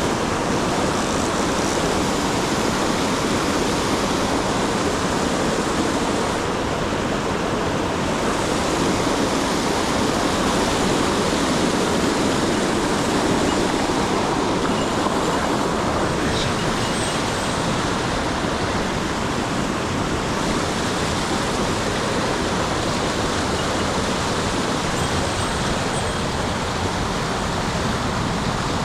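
Steady rush of flowing river water, an even, unbroken noise with no change in loudness.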